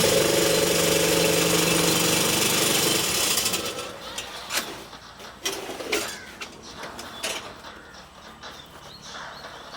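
A machine running loudly with a steady hum and hiss, stopping after about three and a half seconds, followed by several scattered knocks.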